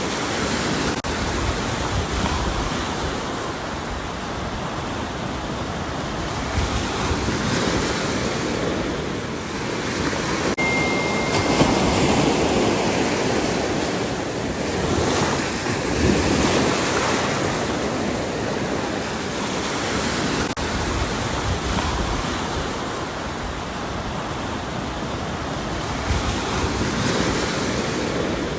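Ocean surf: a continuous wash of breaking waves that swells louder near the middle and eases again.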